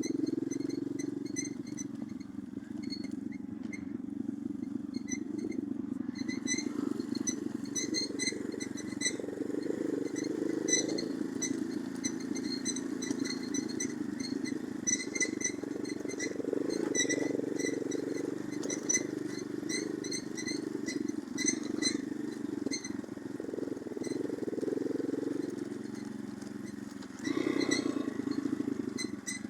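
Orion-100 moped engine running under way, its level rising and falling with the throttle, with a brief louder rise near the end.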